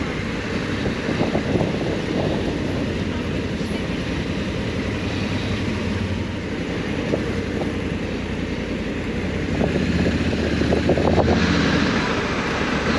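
Honda Africa Twin 1100's parallel-twin engine running while the motorcycle rides along at low speed, with wind rushing over the microphone. The engine grows louder about ten seconds in, then settles back.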